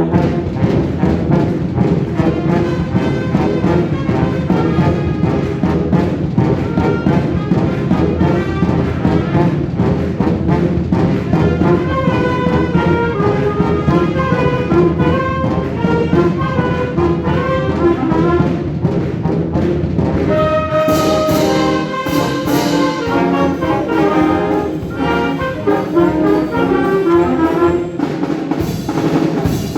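Concert wind band playing: brass and woodwinds together in full, steady music. A few bright cymbal-like crashes come in the second half.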